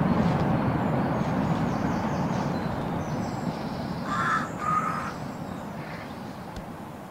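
A broad rumbling noise that fades steadily, with two short bird calls about half a second apart near the middle.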